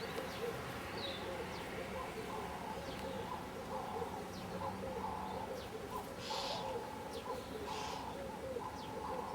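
Doves cooing over and over, with a few higher bird chirps among the coos.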